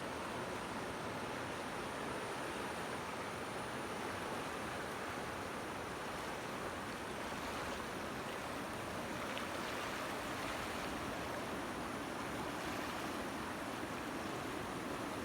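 Steady rushing of a large river in flood, the swollen Trishuli and Kali Gandaki where they meet.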